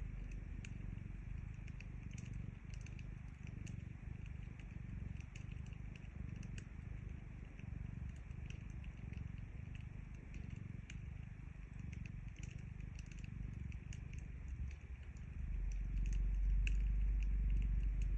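Cat purring, a steady low rumble close to the microphone, with the sparse pops and crackles of a wood fire. About fifteen seconds in, the purring gets louder.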